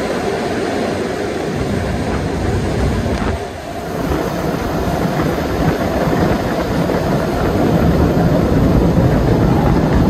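Train running along the track: a steady, loud rumble of wheels and running gear that dips briefly about three and a half seconds in, then grows louder.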